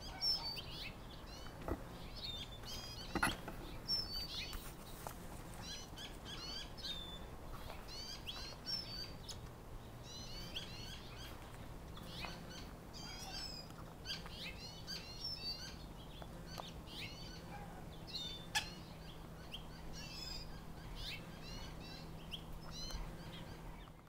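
Birds chirping in a tree: many short, high chirps repeated throughout, with a few sharp clicks, the loudest about three seconds in and again past the middle.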